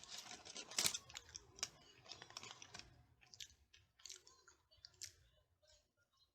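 Close-up mouth sounds of chewing a burger: wet smacks and crunchy clicks, dense at first and thinning out toward the end.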